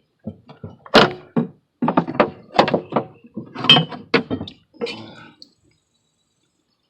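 Irregular run of hard knocks and clunks, about a dozen over some five seconds, then they stop: a BMW X3 transfer case actuator being worked and yanked loose from the transfer case.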